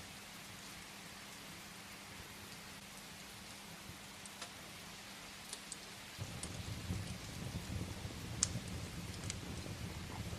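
Steady rain hissing against a window, with scattered sharp pops and crackles from burning firewood in a fireplace. About six seconds in, a low rumble sets in and carries on.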